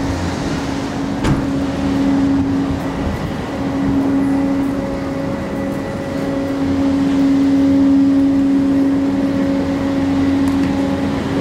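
Steady hum and rumble of a train, with a constant low drone running through it.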